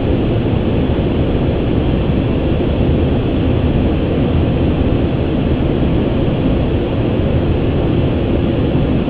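Steady rushing noise inside an Airbus A350 flight deck on approach, with gear down and flaps full: airflow and cabin air mixed with engine sound, level and unbroken.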